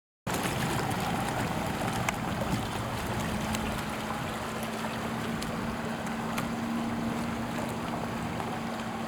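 A motorboat running past with a steady engine hum, under wind buffeting the microphone and the rush of water. The sound starts suddenly just after the beginning.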